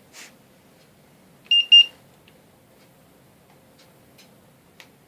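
Two short, high electronic beeps close together, about one and a half seconds in, from a handheld infrared thermometer as it takes a surface-temperature reading.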